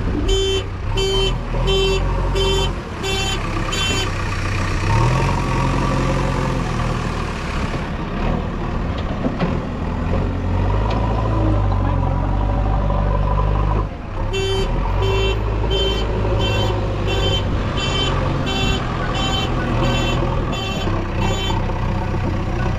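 Heavy diesel engine of a JCB 3DX backhoe loader running under load, rising in pitch now and then as it revs. Over it, a reversing alarm beeps steadily about one and a half times a second, in two runs: one at the start and a longer one later on.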